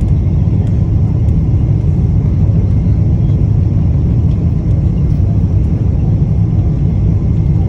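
Steady low rumble of engine and airflow noise inside the passenger cabin of a Boeing 777-200.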